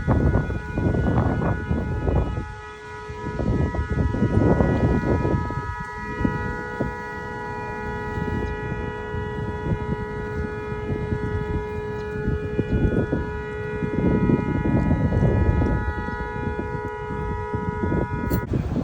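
A steady siren-like tone, several pitches sounding together without rising or falling, which cuts off suddenly near the end. Under it runs a loud, gusty low rumble.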